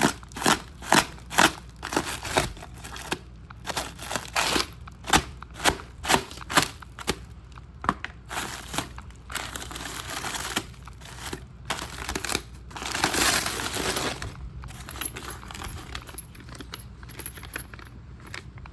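Packaging crinkling and tearing as new suspension parts are unboxed: a quick string of sharp crackles, with a longer rustle about thirteen seconds in.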